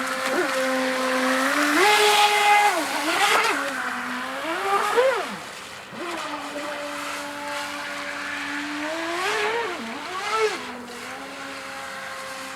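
3D-printed RC jet boat's motor whining, its pitch rising and falling as the throttle is opened and eased, with louder surges about two to five seconds in and again around ten seconds.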